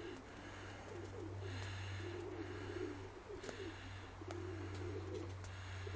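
Domestic pigeons cooing, a low warbling coo repeated every second or so, over a steady low hum.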